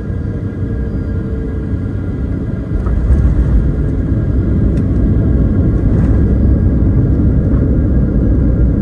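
Boeing 737-900 cabin noise: a steady, dense engine and airflow rumble with a faint steady whine above it. The rumble grows louder a little under three seconds in, with a few light knocks afterwards.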